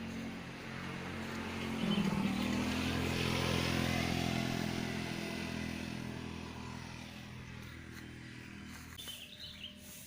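A motor vehicle passing by. Its engine sound swells about two seconds in and slowly fades away over the next several seconds.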